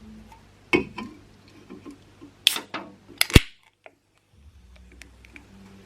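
A Monster energy drink can being handled and cracked open: several light clicks and taps, then the sharp crack of the ring-pull about three seconds in, followed by a brief fizz.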